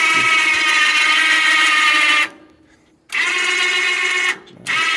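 Electric motor of a sawmill's deck lift whining in runs as its switch is worked: it cuts off suddenly a little over two seconds in, starts again about a second later, and stops and restarts once more near the end.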